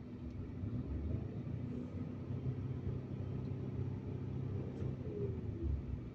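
2016 Ford Explorer's turbocharged EcoBoost engine running, revved up about a second in and held raised for several seconds before easing back near the end. The turbo's bypass valve and wastegate respond to the revs, a sign that the under-boost fault has been cured.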